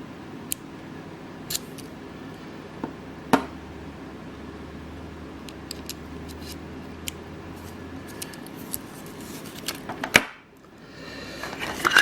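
Sharp metallic clicks of a Victorinox Swisschamp XLT Swiss Army knife being handled, its tools snapping open and shut, scattered irregularly. A louder click comes about ten seconds in, followed by a rustling handling noise that swells near the end.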